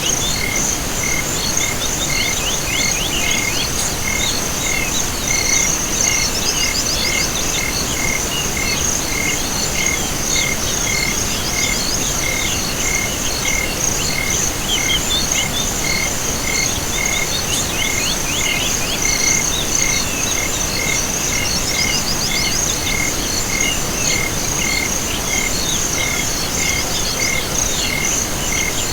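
Night chorus of frogs and insects. A steady high insect trill runs under a single call repeating about three times every two seconds, with bursts of quick chirping frog calls now and then.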